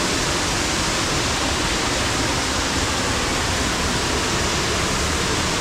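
A small river waterfall pouring, a loud, steady rush of falling water heard from a cave right beneath it.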